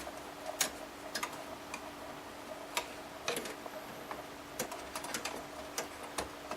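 Faint, irregular light clicks and taps of thin sheet metal being handled inside a desktop computer case as an expansion-slot blanking plate is removed, over a faint steady hum.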